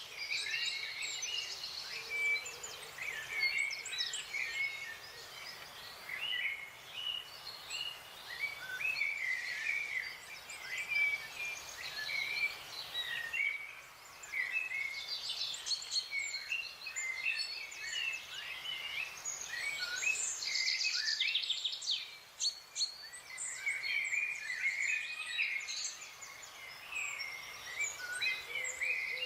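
Several wild birds singing and calling over one another: a busy stream of short chirps, trills and warbled phrases that overlap throughout, over a faint steady hiss.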